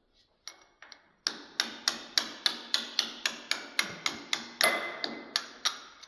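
A hammer striking metal in a quick, even run of about sixteen blows, roughly three a second, each with a short ring, after two light taps. The blows are driving apart parts of a Pullmax machine's height-setting assembly during disassembly.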